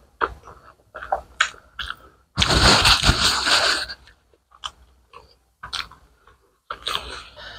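Close-miked wet chewing and lip smacking, heard as short sharp clicks, from a mouthful of rice and spicy curry eaten by hand. About two and a half seconds in, a loud hissing rush of noise lasts about a second and a half.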